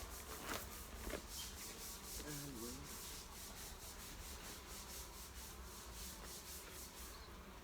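Rhythmic scratchy rubbing, several even strokes a second, faint throughout.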